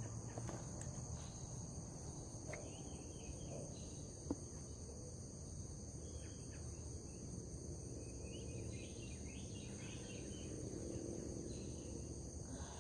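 Steady high-pitched insect chorus droning outdoors, with a few faint chirps over it.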